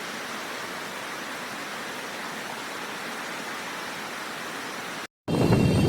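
Steady, even rushing of floodwater. It cuts out abruptly about five seconds in, and a louder, deeper noise starts right after.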